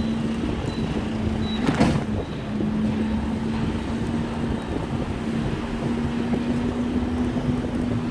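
Street traffic heard while riding, with wind on the microphone and a steady engine hum throughout. A brief sharp noise stands out about two seconds in.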